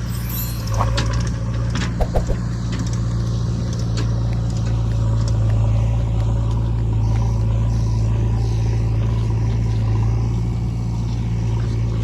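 Heavy diesel engine of a tractor or backhoe loader running at a steady speed, with a few short knocks around two seconds in.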